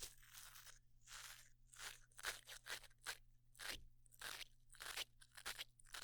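Quick, crisp scratchy strokes of an ASMR prop worked close to the microphone, about two to three a second, standing in for a dental cleaning tool scraping plaque off teeth.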